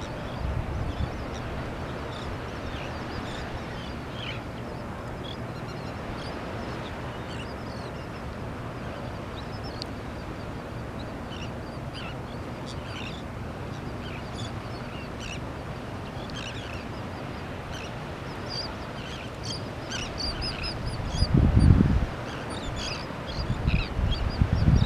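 A flock of terns and gulls calling over a feeding school of fish, many short high calls overlapping throughout. Wind buffets the microphone about three-quarters of the way through and again near the end.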